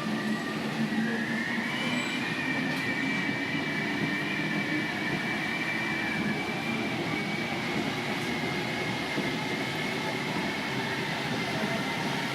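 The MP89CC running with a steady high whine over a rumbling hum; the whine rises slightly about a second in and then holds. This is the strange start-up noise the owner is showing.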